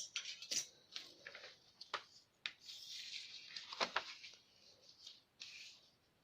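Pattern drafting on paper: scratchy strokes of a marking tool drawn across paper, with sharp clicks and taps as a ruler is handled, and a longer scraping stroke about two and a half seconds in.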